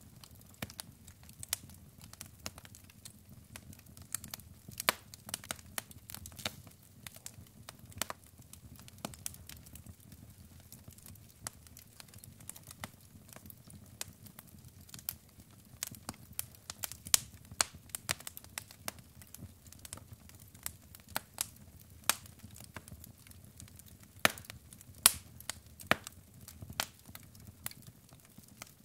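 Logs burning in a fireplace: irregular sharp crackles and pops, several a second, with now and then a louder pop, over a soft low rumble of the flames.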